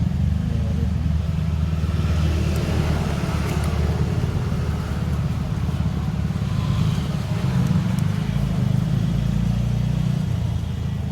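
A vehicle engine running steadily, with a low, even pulsing note that shifts slightly around seven seconds in.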